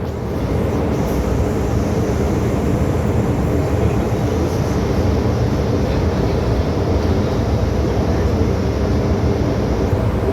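MTR M-train electric multiple unit running along the line: a steady, loud rumble of wheels on rail and traction equipment.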